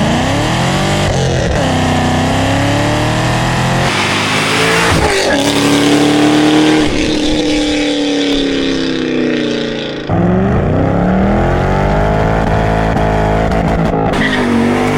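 Modified V8 car accelerating hard past at full throttle, the engine note climbing through an upshift, then dropping in pitch as it passes and pulls away. About ten seconds in, a second acceleration run starts, the engine climbing again through a gear change.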